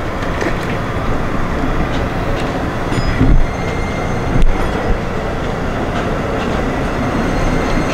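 E653 series electric multiple unit pulling out of the station, its running gear rumbling steadily with scattered clicks from the wheels and rails. Two heavier thumps come a few seconds in.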